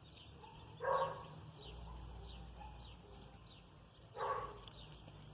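A dog barking twice, once about a second in and again near the end, with small birds chirping faintly in the background.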